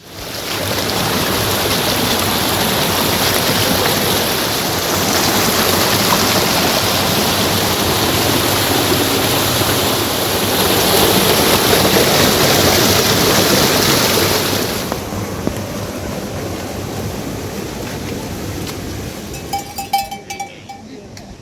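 Loud, steady rushing of water that eases about fifteen seconds in, with a few clicks near the end.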